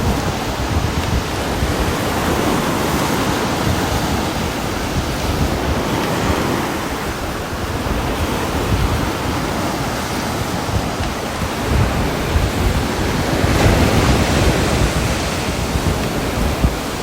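Steady rain falling: a continuous, even wash of noise with a deep rumble underneath, swelling a little near the end.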